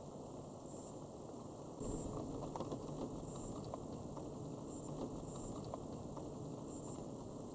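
Rain pattering during a night thunderstorm, with scattered drop ticks over a steady hiss. It gets louder about two seconds in.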